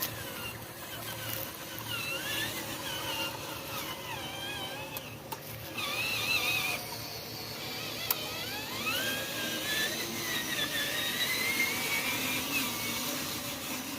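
Small electric motors of radio-controlled construction models whining, their pitch wavering up and down. In the second half one whine rises and holds high.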